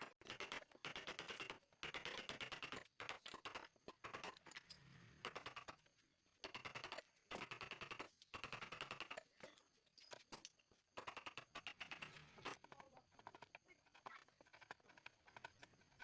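Hand tool working wood in repeated strokes, each a burst of rapid fine scraping and clicking about a second or two long, with short pauses between.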